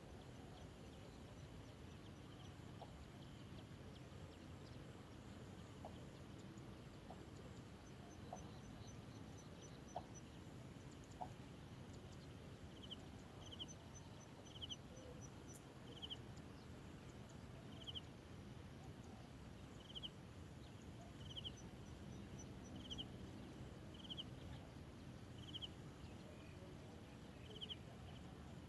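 Faint bird chirps over a low outdoor hiss. Short chirps repeat every second or two through the second half, with a few brief, high, rapid trills between them.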